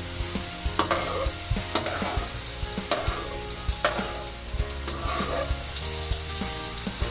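Diced carrots sizzling in hot oil in a stainless steel wok, with a metal spatula scraping and clicking against the pan about once a second as the carrots are pushed to one side.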